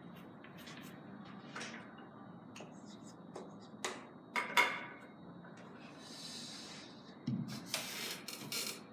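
Sharp clicks of carom billiard balls and cue strikes during three-cushion play: two knocks about four seconds in, the second the loudest, then a quick run of several more near the end.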